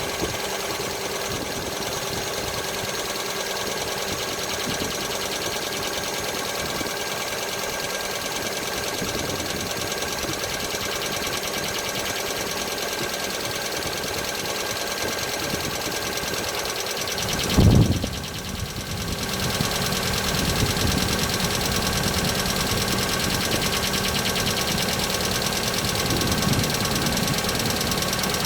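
Hyundai Accent MC engine idling cold with a fast, light knock from the camshaft timing chain, the chain due for replacement; the knock fades once the engine warms. A single dull thump comes a little past halfway, after which the engine runs slightly louder.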